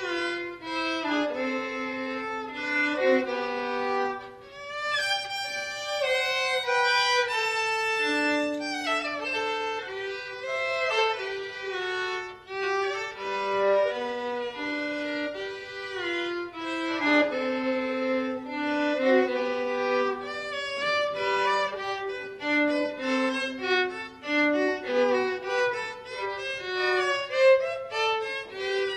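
Violin playing a melody, with held notes and quicker passages and often two notes sounding together.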